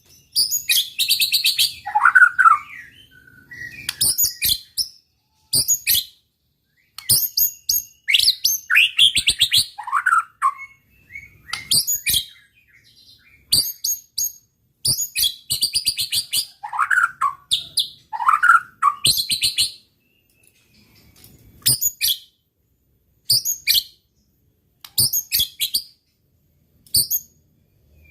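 White-rumped shama (murai batu) in full song: bouts of rapid high trills and sharp chips mixed with loud whistles that slide downward, broken by short pauses of a second or two.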